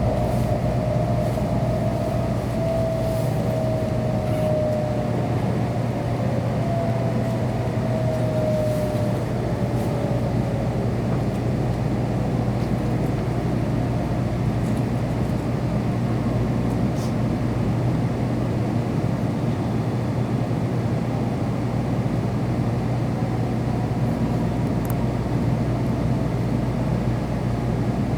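Running noise inside a Kyushu Shinkansen car: a steady rush and rumble with a constant low hum, and a motor whine that falls in pitch over the first dozen seconds as the train slows.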